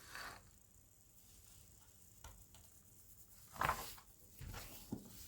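Small plastic model parts being handled and moved on a table: a few light clicks and rustles, the loudest a brief clatter just over halfway through.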